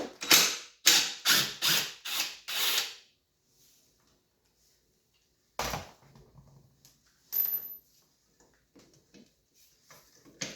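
Socket wrench ratchet clicking through a quick run of about eight strokes, backing out a 10 mm bolt. After a pause come two separate knocks and a few faint clicks.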